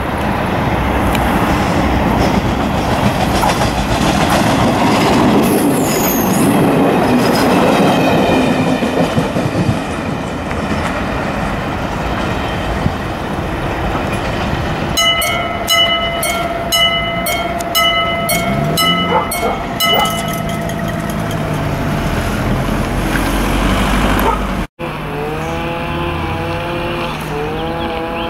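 HŽPP diesel railcar passing close with a heavy rumble of engine and wheels that swells and fades. About halfway through, a level-crossing warning bell rings in quick repeated strokes for about five seconds. After a sudden cut, a diesel railcar's engine revs, its pitch rising and falling.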